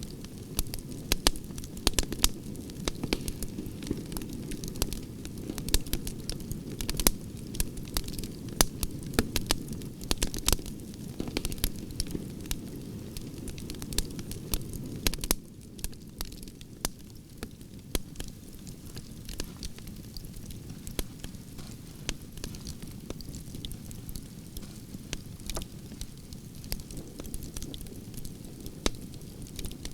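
Campfire of burning branches crackling, with many sharp irregular pops over a steady low rumble of the flames; the rumble eases a little about halfway through.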